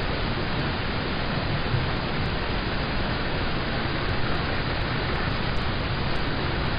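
Steady rain falling on a car's roof and windows, heard from inside the car as an even, continuous patter.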